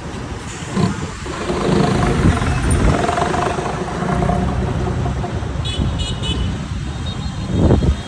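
Old heavy truck's diesel engine running on the road, with a vehicle horn sounding briefly about three seconds in.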